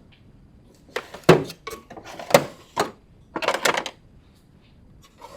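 Small hard objects, likely tools, being handled and set down: a string of sharp knocks and clicks, with a short clattering rattle a little after the middle.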